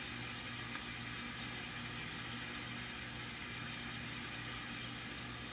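Steady sizzle of chicken, sausage and diced vegetables frying in a hot cast iron skillet, over a low steady hum, with a faint click about a second in.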